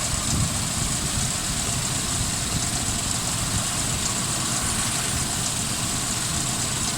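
Suzuki Grand Vitara's 2.5-litre V6 engine idling steadily while misfiring: the cylinder 2 fuel injector is not pulsing, so that cylinder is dead.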